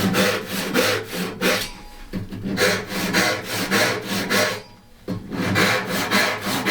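Hand saw cutting through a wooden board in steady back-and-forth strokes, about two a second, pausing briefly near the end before sawing on.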